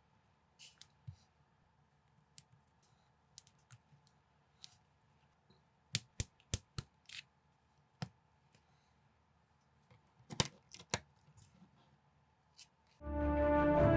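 Plastic building bricks clicking and snapping as they are handled and pressed together, sharp irregular clicks, several in quick clusters around six and ten seconds in. Music starts near the end.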